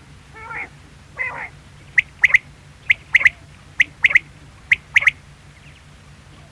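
Male common quail singing: two low, rough preliminary notes, then four sharp three-note phrases about a second apart.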